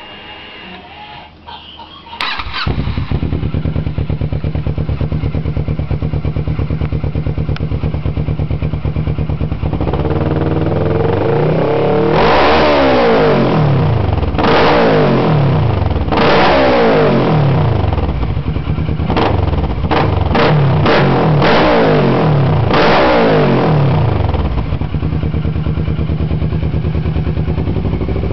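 2006 Kawasaki Ninja 650R parallel-twin engine, breathing through a Two Brothers Racing titanium exhaust with the baffles removed, starting about two seconds in and idling steadily. From about ten seconds it is revved repeatedly, each rev rising and falling, with several quick throttle blips in a row, then it drops back to idle near the end.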